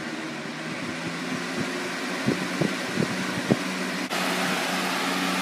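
Lasko 3733 20-inch box fan running on high speed: a steady rush of air over a low motor hum, very noisy, with a few brief low thumps in the middle.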